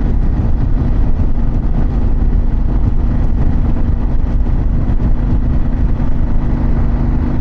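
2024 Harley-Davidson Pan America's V-twin engine running steadily while the bike cruises, with even wind and road noise over it.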